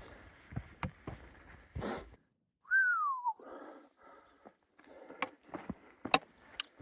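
Footsteps on a hiking trail, then after a brief silent gap a single short whistle falling in pitch, the loudest sound, before the footsteps start again.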